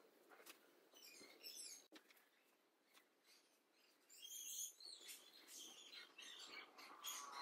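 Near silence, with faint, short, high bird chirps now and then.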